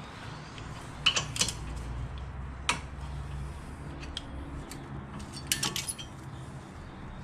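Hand tools and metal parts clinking and clattering during brake work, a few sharp metallic clinks over a low steady hum.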